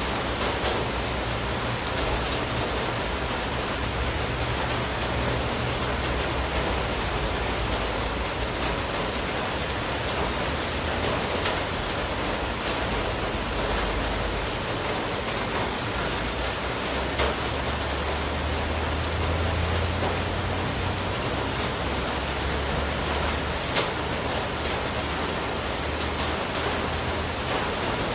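Steady heavy monsoon rain falling and pattering on surfaces, a dense even hiss with occasional sharper drop hits and a low rumble underneath.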